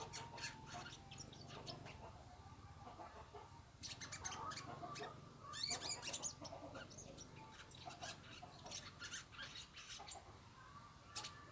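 Birds chirping in short bursts, busiest about four to six seconds in, with one more sharp call near the end.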